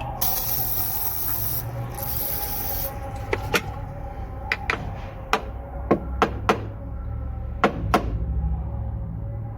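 Two hissing spray bursts as a diesel fuel injector is cleaned, the first just over a second long and the second just under, followed by a string of sharp clicks and taps of small metal parts being handled. A steady low hum runs underneath.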